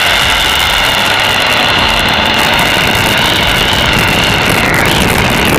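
Supercharged 5.4-litre V8 of a 2003 Ford Lightning SVT held at high revs in a burnout, with the tires squealing steadily.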